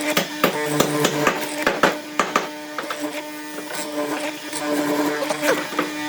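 A power tool's electric motor running with a steady hum, while irregular sharp clicks and knocks of work on wood come through on top.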